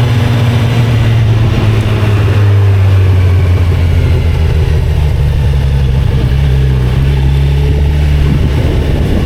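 2025 Kawasaki Z900's inline-four engine running, its pitch easing down slightly a couple of seconds in and rising again about seven seconds in.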